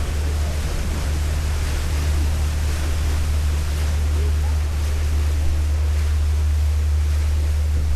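A boat's engine running with a steady low rumble and hum, over a wash of water noise and faint distant voices.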